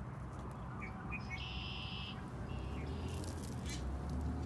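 A wild songbird calls in the background: a few short high chirps, then one buzzy high note of under a second. Outdoor hiss and a faint low hum run beneath it.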